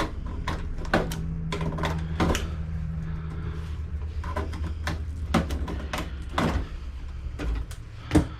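Irregular clicks and knocks of hand tools working on metal parts of an old computer motherboard, prying and turning to free a heat sink, over a steady low hum.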